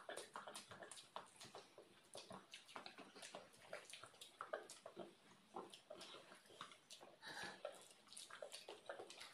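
Faint, irregular chewing and wet mouth noises from people eating boiled eggs, with small clicks and taps from handling the eggs and tableware.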